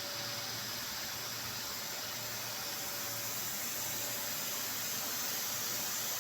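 Steady hiss of industrial machinery with a low hum and a faint whining tone, unchanging apart from a slight rise in level.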